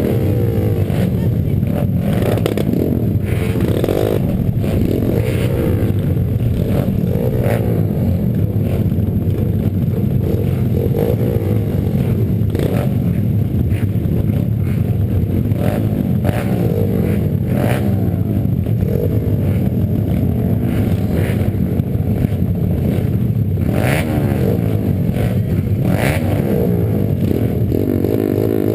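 Pit bike engines racing, repeatedly revving up and falling back as they shift and slow, with the pitches of several bikes crossing one another. Scattered knocks and clatter run through it.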